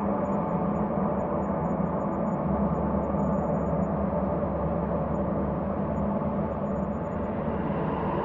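Synthesized ambient space drone: layered sustained tones over a deep low hum, steady with no beat or rhythm.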